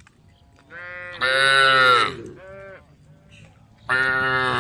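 Cows mooing: a loud drawn-out moo about a second in and another starting near the end, with fainter moos between.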